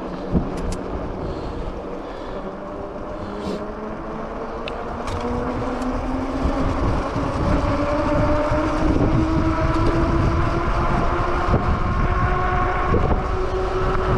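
A 750 W Bafang e-bike motor whining, its pitch rising steadily and growing louder as the bike speeds up, over low wind rumble on the microphone.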